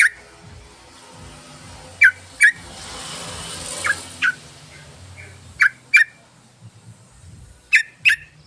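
Yellow-vented bulbul (trucukan) calling: short, sharp double notes, the two notes under half a second apart, repeated about every two seconds. A faint hiss rises and fades about three seconds in.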